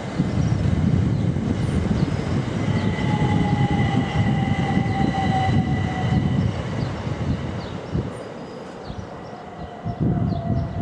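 Electric multiple-unit passenger train passing through a station: a loud low rumble of wheels on the rails, with a whine that slowly falls in pitch. The rumble eases about eight seconds in, then builds again near the end.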